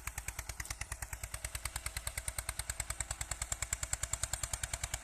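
Eicher 242 tractor's diesel engine running with an even, rapid beat of about ten pulses a second, working a field in tillage.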